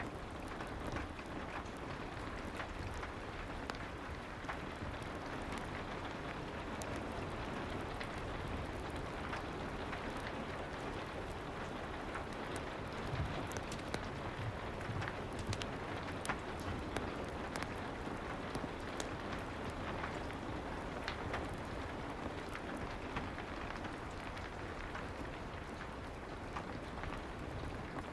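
Soft rain falling steadily, mixed with a fireplace crackling, its small pops and ticks scattered through the steady hiss.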